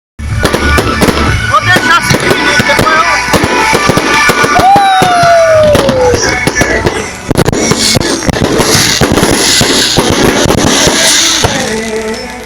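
Bonfire crackling and popping in rapid, irregular snaps, with a single falling whistle about five seconds in.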